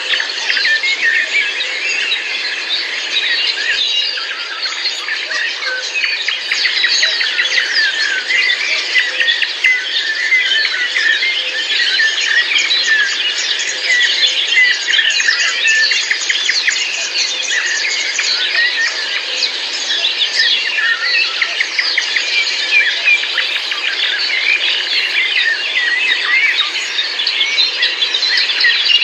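A dense chorus of many birds chirping and calling at once, the calls overlapping without a break.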